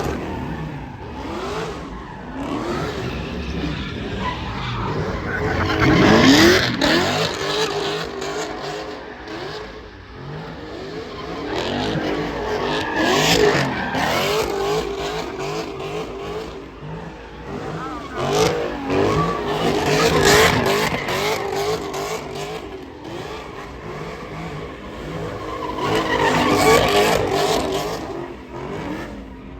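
Car engines revving hard with tyre squeal and skidding as cars spin and circle past. The sound swells and fades about every seven seconds.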